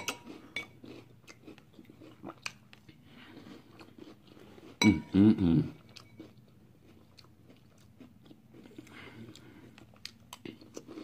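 A person chewing a mouthful of crunchy cereal in milk, with small clicks of a metal spoon against the bowl. About five seconds in comes a short, loud hummed vocal sound.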